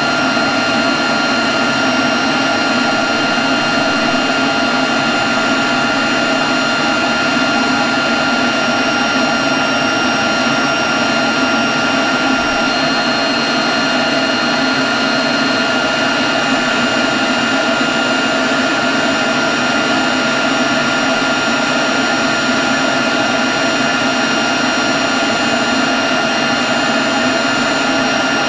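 Leaf blower running steadily at constant speed: a rush of air with a steady whine over it, unchanging in level.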